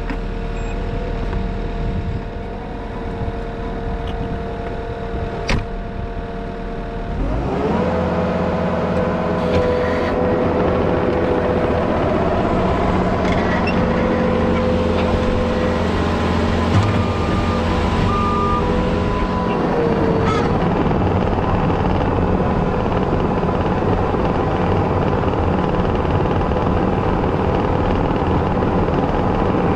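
Compact track loader's diesel engine idling, then throttled up about seven seconds in and running steadily at high revs.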